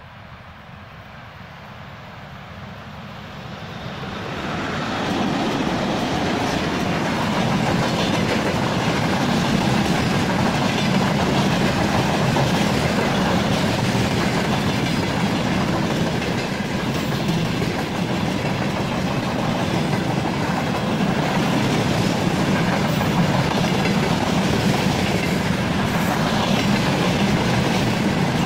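VL80S electric locomotive hauling a freight train of tank wagons. It grows louder over the first five seconds as it arrives, then the wagons roll past steadily, with wheels clattering over the rail joints.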